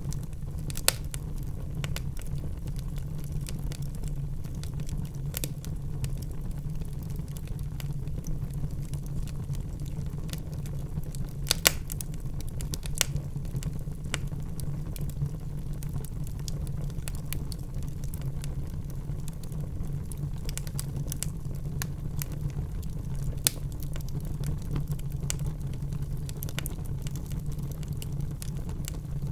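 Wood fire in a fireplace crackling, with a steady low rumble under a running scatter of sharp snaps and a few louder pops.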